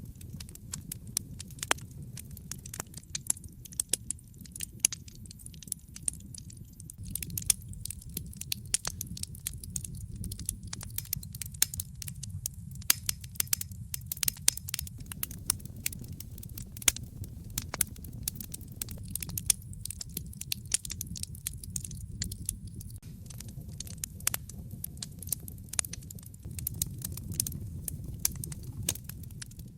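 Wood fire crackling: frequent, irregular sharp pops and snaps over a steady low rumble of the burning flames.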